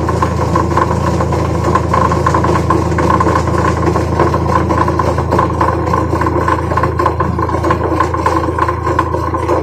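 Washing machine motor running steadily, a constant mechanical hum.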